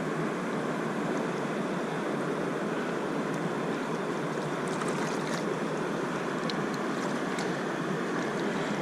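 River water rushing steadily over a riffle, with a few faint ticks or small splashes in the middle.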